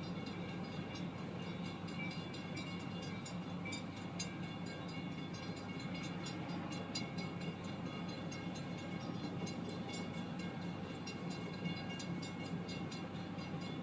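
Freight cars of a unit sand train rolling past: a steady rumble of wheels on rail with many quick small clicks throughout.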